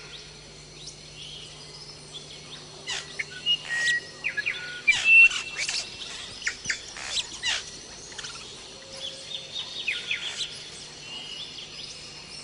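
Birds calling and chirping in tropical forest: many short whistles, chirps and quick rising and falling sweeps from several birds, loudest about five seconds in, over a low steady hum.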